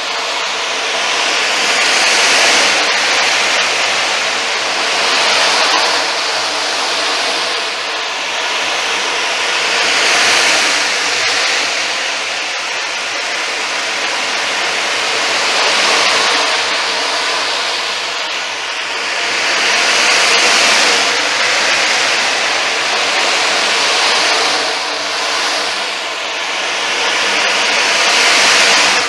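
Ocean drum being tilted back and forth, the beads rolling across the drumhead in a continuous loud rushing hiss that swells and fades like surf, a wave every two to three seconds.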